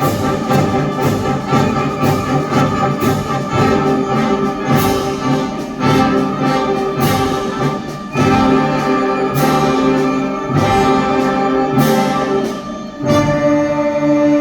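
School concert band playing loud, full brass chords over percussion, with sharp accented hits every second or two. It drops back briefly near the end, then comes in again on a new chord.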